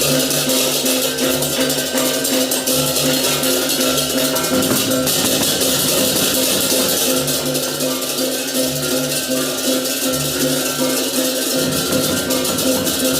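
Balinese baleganjur gamelan playing: dense crashing cymbals over ringing gong and metallophone tones and drums in a steady, repeating rhythm, the cymbals growing brighter about five seconds in.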